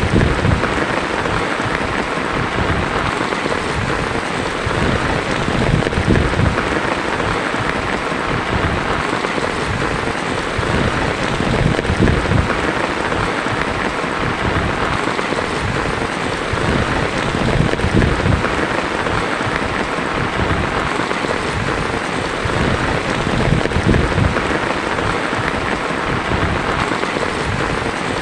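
Heavy rain drumming steadily on a tin roof, a dense, even patter with an uneven low rumble underneath.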